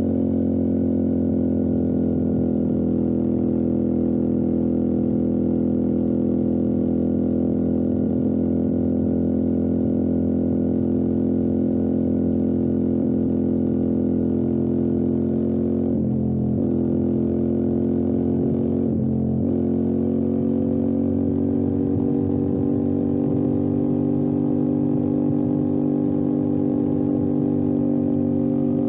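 Motorcycle engine running steadily under load at fairly constant revs on a ride. Just past halfway the engine note briefly breaks and glides twice, a few seconds apart, as with quick gear changes.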